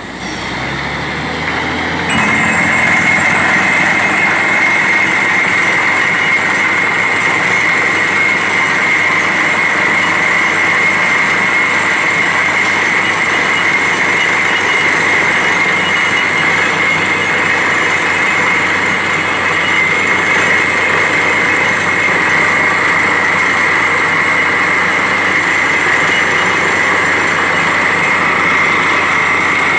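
Borewell drilling rig running: a loud, steady mechanical din with a steady high whine through it. It builds up over the first two seconds, then holds steady.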